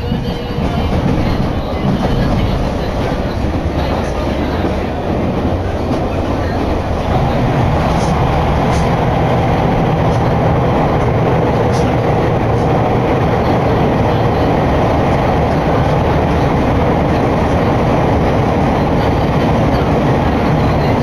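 Sotetsu Izumino Line commuter train running, heard from inside the passenger car: a steady rumble of wheels and running gear that grows louder about seven seconds in.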